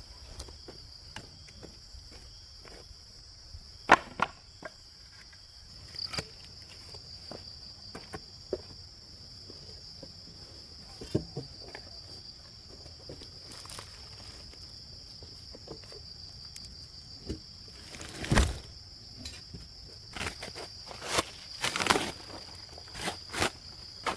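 Steady high-pitched chirring of insects, with scattered knocks and clicks on top: a sharp click about four seconds in, a heavier thump a little past the middle, and a cluster of knocks near the end.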